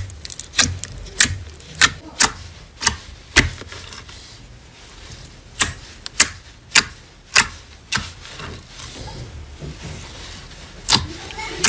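A knife cutting into dry soap: a series of crisp, sharp clicks about every 0.6 s, in two runs with a pause between them and a single click near the end.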